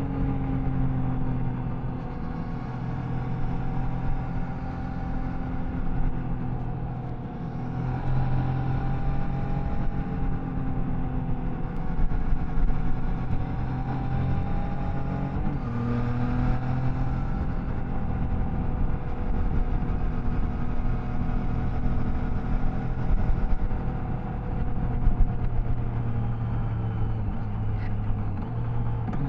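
Triumph Tiger Sport 660's inline three-cylinder engine running on the road. The engine note eases off at the start and picks up again at about eight seconds and about sixteen seconds as the rider works the throttle and gears.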